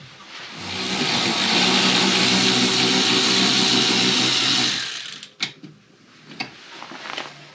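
Handheld electric power tool, a drill-driver type, running for about four seconds: it spins up, holds steady and then winds down, undoing a fastener on the engine's strut brace bar. A sharp knock and a few light clicks follow.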